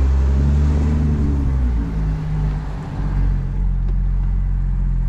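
Audi S4's supercharged V6, breathing through an AWE Touring exhaust, pulling with its pitch rising, then falling about two seconds in as the revs drop, and settling into a steady drone.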